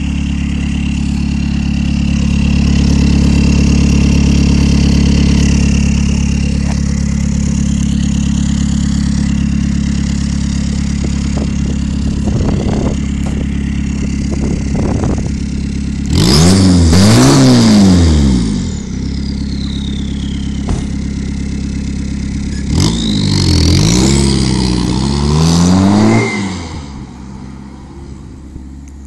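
Peugeot hatchback engine idling steadily at the tailpipe, then revved twice: a rev of about two seconds that climbs and drops back, then, some seconds later, a longer rev that rises and falls a few times before settling.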